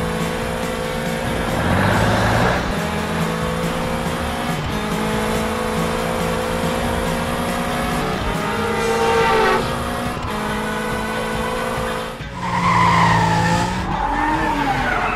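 Cartoon racing-car sound effects: engines running steadily, with several brief tyre squeals (about two seconds in, around nine seconds and near the end), over background music.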